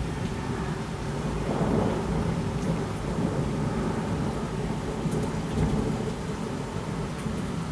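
Heavy thunderstorm rain falling steadily, with a low rolling rumble of thunder that swells about a second and a half in and goes on rumbling.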